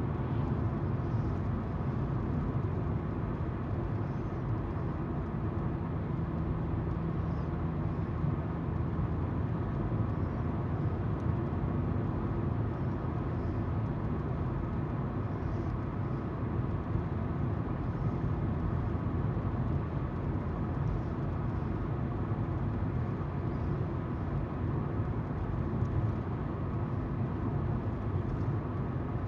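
Steady driving noise heard from inside a moving car: tyres on the road and the hum of the engine.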